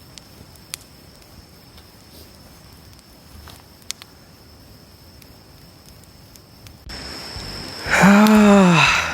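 Campfire crackling faintly, with a few sharp pops from the burning wood. About seven seconds in a louder rushing noise starts, and near the end comes a loud drawn-out vocal sound whose pitch rises and then falls.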